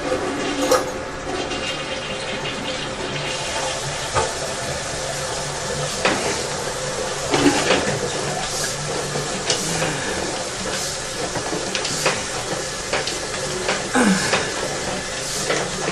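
Steady rush of water in a sewer drain line, with scattered knocks and scrapes.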